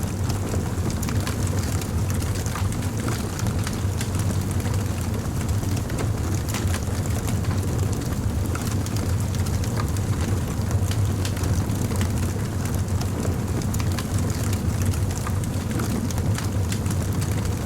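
Wood fire crackling: frequent small, irregular pops and snaps over a steady low rumble.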